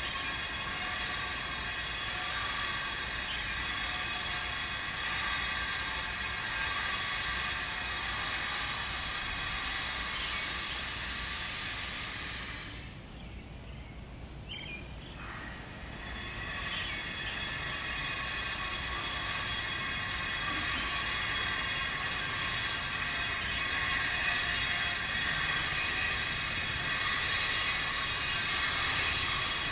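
Power tool grinding or cutting stone, a steady harsh hiss with a high whine. It stops for about three seconds roughly halfway through, then runs again.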